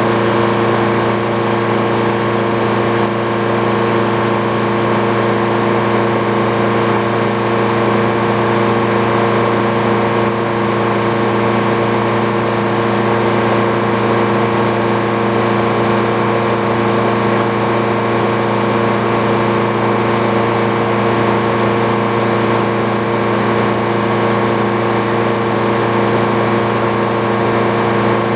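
Frick sawmill running, its driving engine holding a steady speed with an even hum that does not change.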